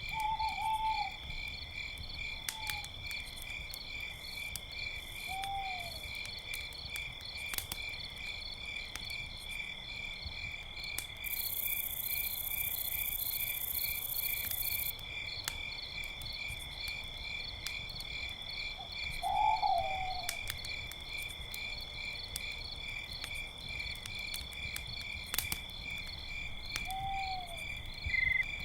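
Crickets chirping steadily in a fast pulsing trill at two pitches, with sparse sharp crackles from a campfire. A few short, falling animal calls come in now and then, and a brief stretch of high hiss sits in the middle.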